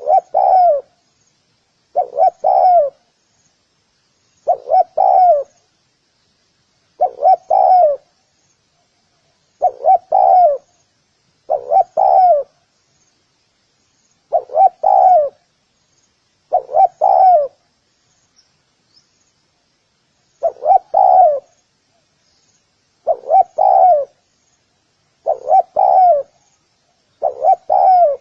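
Spotted dove cooing: a short phrase of two or three coos, repeated about every two seconds.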